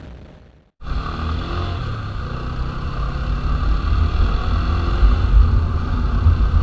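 TVS Apache RTR 160 4V's single-cylinder engine pulling the motorcycle along at low road speed, its pitch climbing slightly as the bike gains speed, under a heavy low rumble. It cuts in suddenly about a second in, after a moment of silence.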